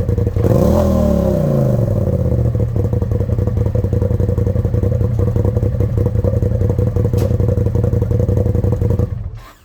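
Engine idling through a newly fitted aftermarket exhaust on its first start, revved once about half a second in, the pitch rising and sinking back to idle. It runs evenly at idle, then is switched off near the end. It sounds pretty good, and not as loud as expected.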